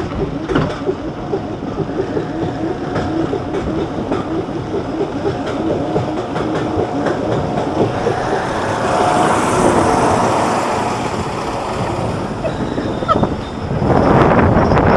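Mine-train roller coaster cars being hauled up the lift hill by the chain, with a steady rhythmic clacking of the chain and anti-rollback ratchet. A louder rushing noise comes in suddenly near the end.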